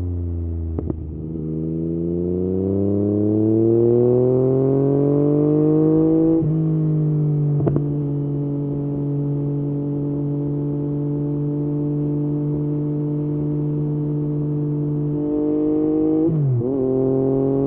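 Yamaha MT-09's three-cylinder engine through an Akrapovič exhaust, under way. The note falls off, then climbs steadily under acceleration for about five seconds. It breaks at a gear change and then holds at a steady cruise, with a brief dip and pick-up near the end.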